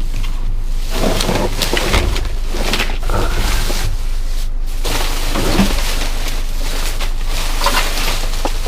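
Trash being rummaged through in a dumpster: irregular rustling and knocking, over a steady low rumble.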